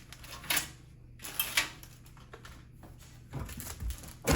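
Handling noises as parts of a small PC case are moved: a few short scrapes and knocks, then a heavy thunk at the very end as something drops onto a foot.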